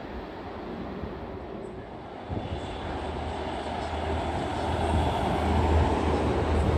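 An unseen train approaching along the tracks: a rumble with a low hum that begins to swell about two seconds in and keeps growing louder.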